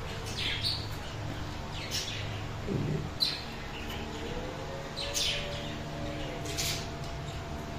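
A bird chirping: about five short, high, falling chirps roughly a second and a half apart, over a steady low hum.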